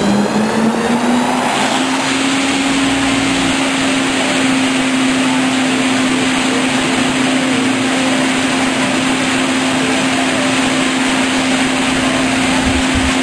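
Truck-mounted vacuum running at full power: a loud, even rushing with a hum that climbs in pitch over the first second or so, then holds steady.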